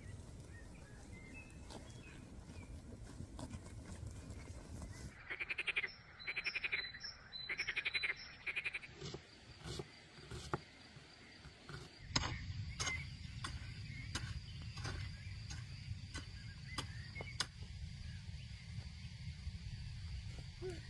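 Animal calls: four pulsed calls about a second apart, followed by scattered sharp clicks and knocks over a steady low rumble.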